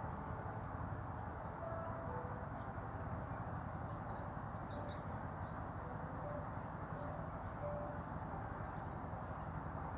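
Outdoor ambience: a steady low background hiss and rumble, with a faint high-pitched insect chirring running through it and a few brief chirps.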